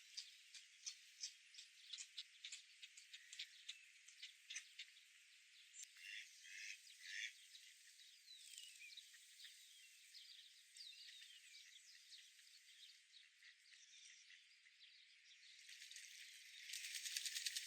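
Faint, scattered chirps and short calls of small birds, with a quick rattling trill near the end.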